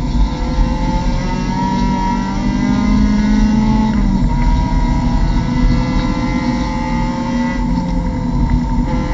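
Mazda MX-5 Cup race car's engine heard from inside the cockpit, accelerating. The engine note breaks and changes pitch about four seconds in and again near the end.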